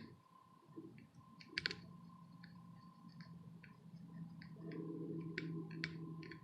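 Faint, irregular light clicks of small metal tools tapping on a circuit board and charging port as the part is pressed flat and positioned, over a faint steady hum.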